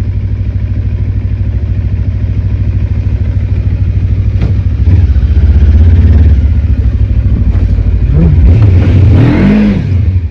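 Cyclone RX401 motorcycle engine running on the move, getting louder about five seconds in as the throttle opens, then the revs rising and falling twice near the end.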